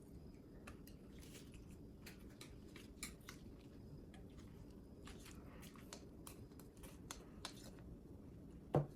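A person eating close to the microphone: scattered soft crunches and clicks of chewing, with one louder thump near the end.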